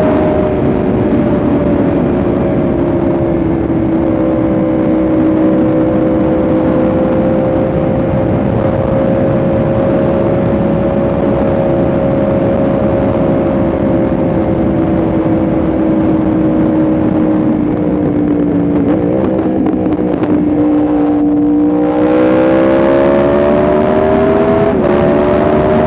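Yamaha R1M's crossplane inline-four engine running under way at a steady, slowly sinking pitch, then picking up near the end, its pitch rising as the bike accelerates, with one brief break in the rise.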